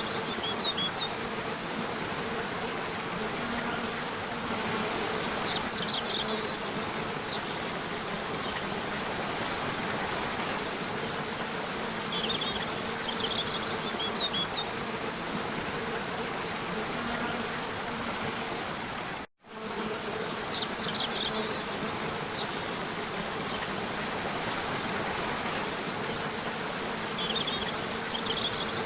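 Nature ambience: a steady rush of water under a low insect-like buzzing drone, with short clusters of high chirps four times. The sound cuts out for a moment about two-thirds of the way through.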